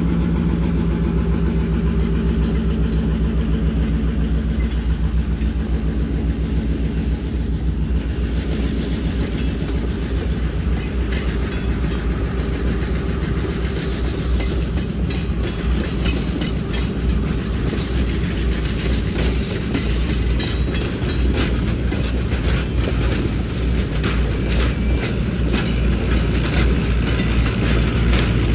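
EMD FP7 diesel locomotive with its train rolling by: a steady low engine drone, then from about eight seconds in the rapid clicking and clatter of wheels over rail joints, which grows denser toward the end.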